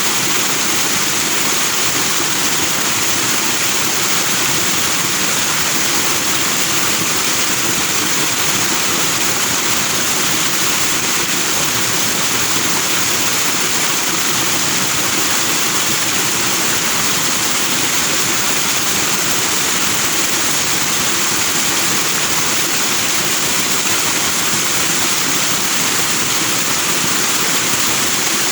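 Forest stream rushing over rocks in white foam, a steady, unbroken water noise.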